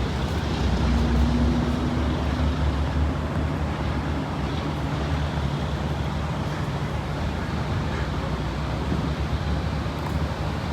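Jet engine noise from a Boeing 737 MAX flying overhead: a steady low rumble, a little louder in the first few seconds.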